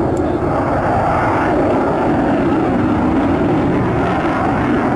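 Sukhoi Su-27's twin AL-31F turbofan jet engines heard during a flying display: a loud, steady, deep jet noise.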